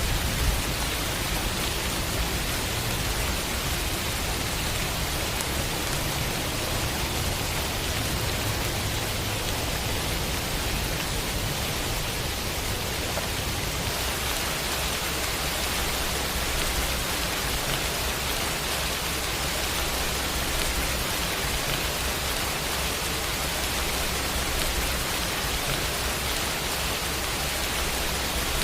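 Heavy rain falling steadily, an even hiss of many drops. About halfway through, the hiss turns slightly brighter.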